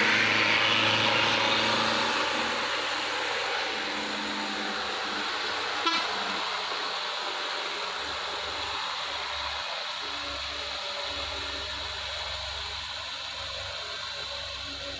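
A heavy vehicle's engine on the climb fades away over the first few seconds, leaving steady traffic and road noise. A brief horn toot sounds about six seconds in.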